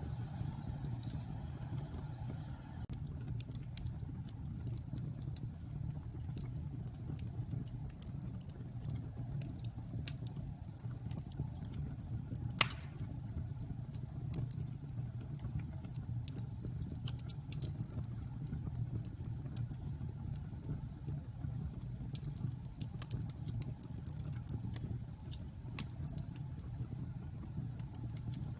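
Wood bonfire burning, a steady low rumble of flames with scattered crackles and small pops, and one sharper pop a little under halfway through.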